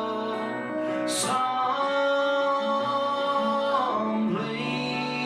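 Live acoustic country song: singing in long held notes over acoustic guitar.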